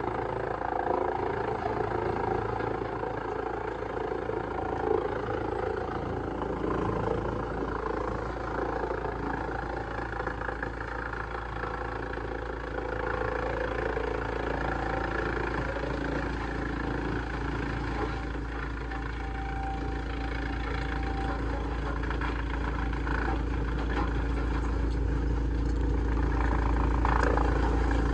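Heavy-duty wood shredder running with a steady, deep engine drone that grows a little louder near the end.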